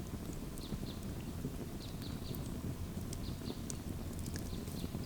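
Campfire crackling in scattered small snaps over a steady low rumble of wind on the microphone, with faint short high chirps now and then.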